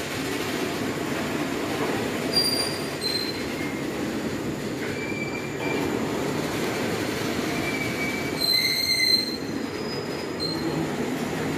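Loaded open freight wagons rolling past on the track, a steady low rumble with short, high-pitched wheel squeals several times, the loudest about eight to nine seconds in.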